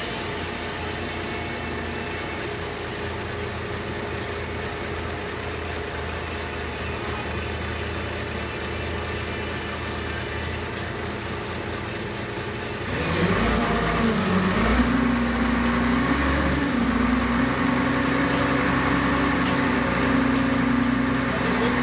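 Excavator diesel engine idling steadily. About 13 seconds in it revs up, louder and higher in pitch, and holds at the higher speed.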